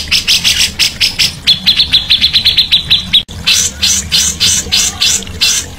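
Songbird singing a fast string of harsh repeated chirps, about six a second. In the middle a quicker run of thinner, higher notes cuts in. A brief sudden gap, like a splice in the recording, comes about halfway through.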